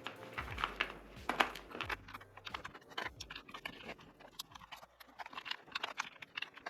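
Typing on a GMK67 mechanical keyboard: an irregular run of keystroke clacks, several a second.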